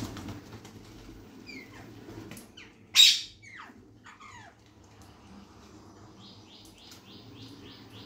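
Birds calling: several short falling chirps, one loud harsh call about three seconds in, and a quick run of about eight clipped notes near the end.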